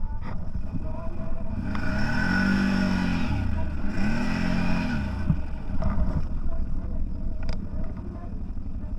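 CFMOTO 1000 off-road vehicle's engine running under way, revving up and back down twice, about two and four seconds in, with a steady low rumble between and a few sharp knocks near the end.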